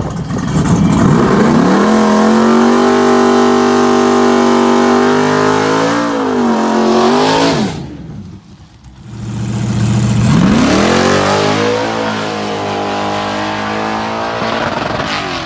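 Drag-racing truck engine at full throttle: it revs up over about two seconds, holds a steady high pitch, and cuts out after about seven seconds. A second rev-up comes in about two seconds later and runs on.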